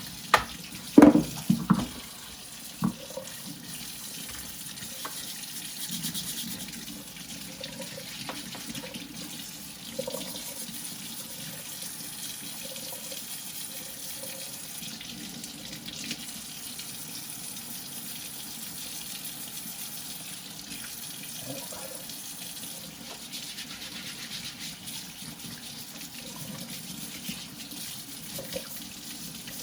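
Tap water running steadily into a sink while deer antlers are washed by hand with soap and warm water. A few sharp knocks sound in the first two seconds.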